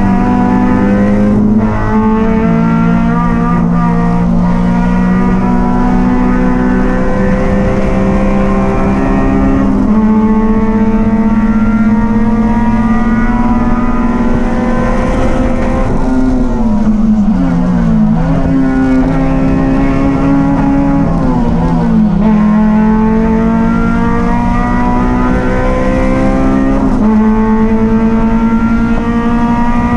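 Race car engine running hard at high revs, its pitch climbing slowly in each gear. It drops sharply at upshifts about two seconds in and twice in the second half, and jumps up at downshifts near the middle and near the end.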